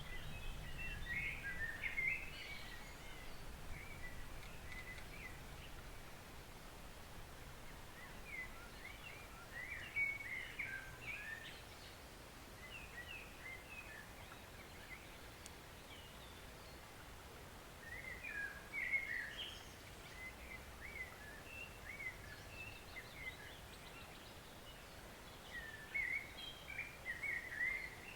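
A songbird singing short, quick twittering phrases, four of them spaced several seconds apart, over the faint steady hiss of a woodland stream.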